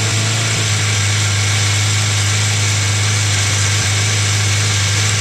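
A 1996 Suzuki Katana 600's inline-four engine running steadily at a fast idle of about 3,000 rpm on choke, warming up just after a cold start.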